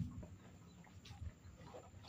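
Faint, irregular chewing and mouth smacks from eating instant noodles, with a few soft clicks.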